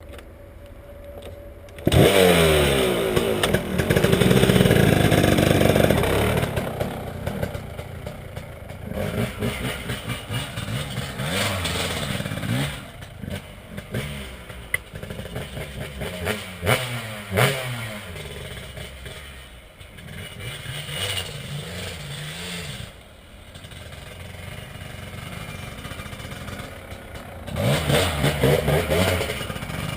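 Dirt bike engine revving hard and easing off again and again as the bike is ridden, its pitch sweeping up and down. It jumps sharply to full volume about two seconds in, with quieter stretches in between.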